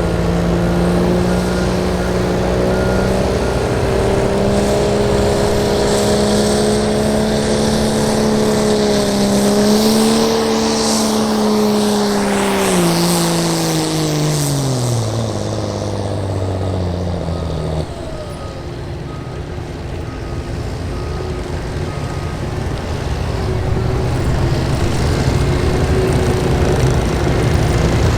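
Diesel pickup truck engine pulling a weight sled at full throttle: it holds a steady high pitch for about twelve seconds, then the revs sag and fall away as the truck bogs down, and the sound drops off sharply about eighteen seconds in. A quieter engine rumble follows and builds again near the end.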